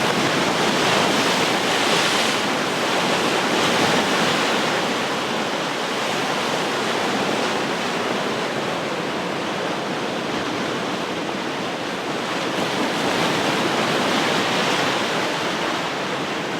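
Ocean surf: waves washing in a continuous rush of noise, swelling gently now and then.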